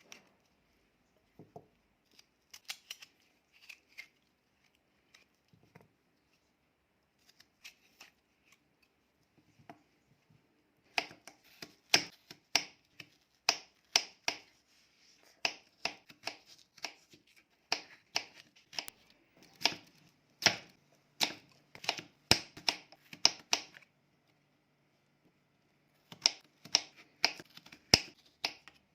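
Knife chopping potatoes on a cutting board: a steady run of sharp strokes, about two a second, starting about a third of the way in, then a short pause and a shorter run near the end.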